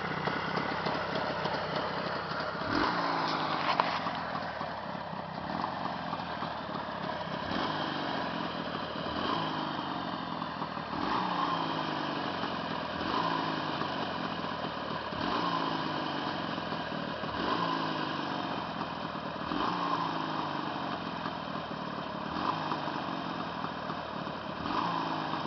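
Jawa 638's twin-cylinder two-stroke engine idling steadily while warm. The freshly rebuilt engine runs quietly with an even exhaust note from both cylinders, a sign of a healthy rebuild.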